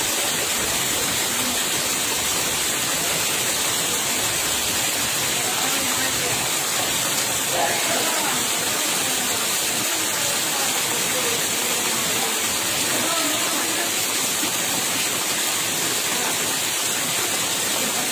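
Steady rain falling, an even rushing hiss that doesn't let up.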